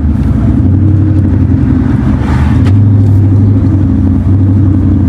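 Car's 5.0-litre V8 engine running steadily at low revs while driving, a loud, deep drone.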